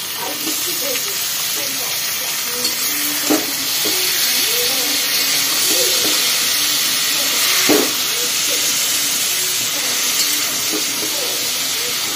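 Jackfruit and grated raw mango frying in mustard oil in a steel kadai, with a steady sizzle. A metal spatula stirs the mix, scraping against the pan a couple of times.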